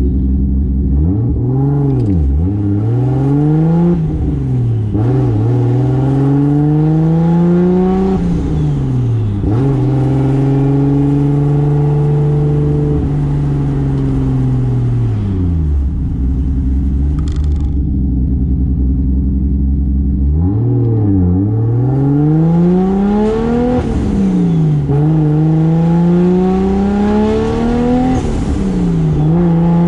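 Single-turbo 2JZ straight-six in a Toyota Soarer accelerating hard through the gears of its R154 manual gearbox, the engine note climbing and dropping sharply at each upshift. About halfway through the revs wind down to a low steady drone for several seconds. Then it pulls up through three more quick upshifts.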